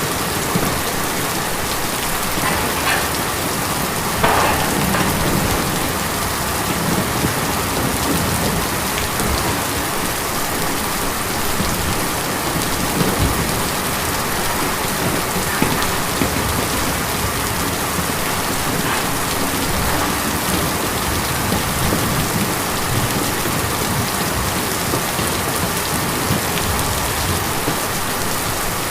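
Steady rain falling on a tin roof, with a few louder single drop hits standing out now and then.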